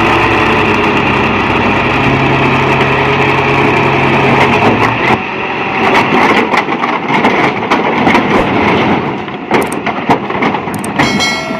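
Mitsubishi dump truck's engine running steadily at raised revs for about five seconds. Then comes a dense clatter of many knocks as the load of foundation stones tumbles out of the tipped bed.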